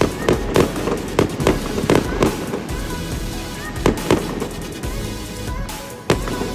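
Fireworks going off: a quick run of sharp bangs, about three a second, for the first couple of seconds. Then come two more bangs near four seconds and a single loud bang about six seconds in.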